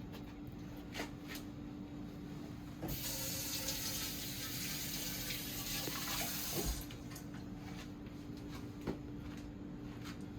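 Kitchen tap running for about four seconds, starting about three seconds in and stopping, with a few light clicks and a steady hum throughout.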